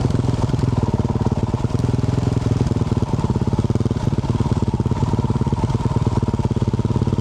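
2024 Yamaha YZ450F's 450 cc single-cylinder four-stroke engine through a Yoshimura RS-12 exhaust, running at low, fairly steady revs with its firing pulses coming through as a close, even chuffing.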